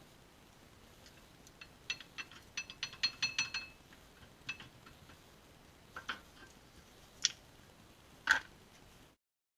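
Metal tools and brake parts clinking and tapping during a front brake pad change: a quick run of about a dozen light ringing clinks, then a few single ones, the loudest near the end.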